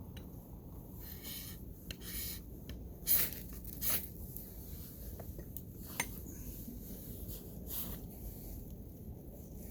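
Camp gear being handled: scattered short rustles, scrapes and light metallic clicks, the loudest a pair of rustles about three and four seconds in and a sharp click about six seconds in.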